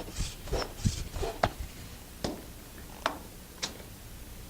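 High-pressure hand piston pump inflating a drop-stitch inflatable kayak chamber: a series of short strokes, each a brief push of air, coming more slowly toward the end.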